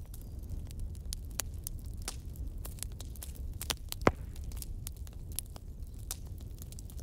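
Wood fire crackling, with scattered sharp pops and one louder pop about four seconds in, over a steady low rumble.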